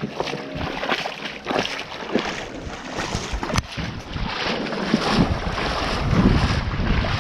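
Water sloshing and splashing in uneven strokes as a kayak is dragged on foot through a shallow riffle, with wind buffeting the microphone. There is one sharp knock about halfway through.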